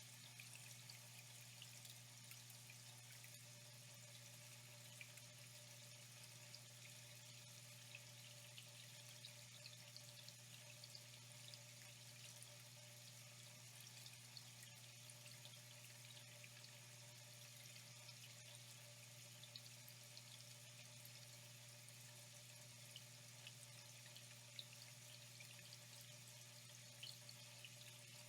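Faint, steady flow of running water, with small drips and splashes scattered through it, over a low steady hum.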